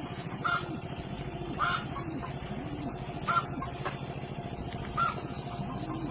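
Chickens clucking, with short calls about every second and a half over a steady low hum.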